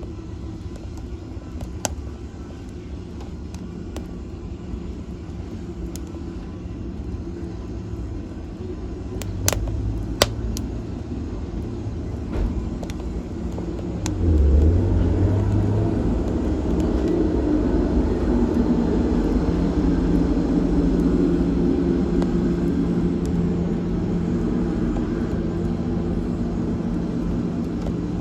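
Fire burning in a fireplace: a steady low rumble of flames with a few sharp pops, the rumble swelling and growing fuller about halfway through.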